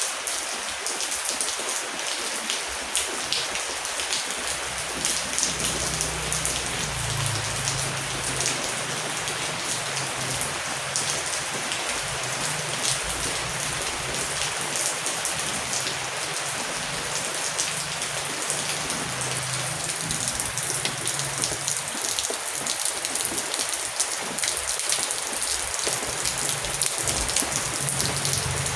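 Heavy rain falling steadily, a dense hiss full of individual drop splashes, with a faint low rumble underneath through the middle stretch.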